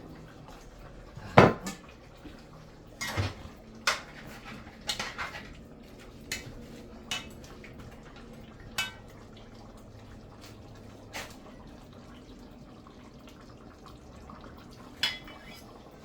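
Metal kitchenware clinking and knocking: about a dozen scattered clinks of utensils against pots and dishes, the loudest about a second and a half in, one near the end ringing briefly.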